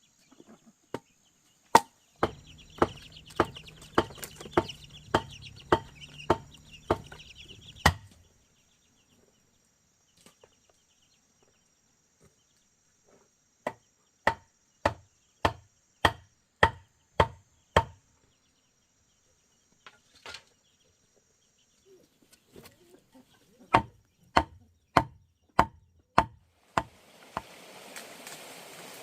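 Rhythmic blows on wood, about two a second, in three runs with pauses between, typical of chopping or hammering timber for a chicken coop; hens cluck in the background.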